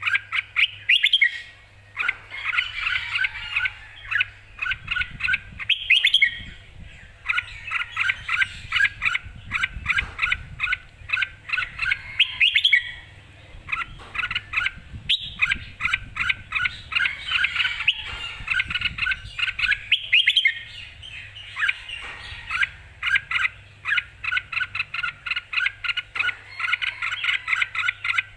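Red-whiskered bulbul singing: rapid runs of bright, quick chirping notes in phrases of a few seconds, each phrase broken by a short pause.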